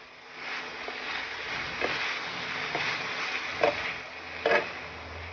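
Chicken strips, onions and bell peppers sizzling in a nonstick pan while being tossed with a fork and a wooden spatula. The sizzle swells about half a second in, and a handful of utensil knocks and scrapes against the pan stand out, the loudest two near the end.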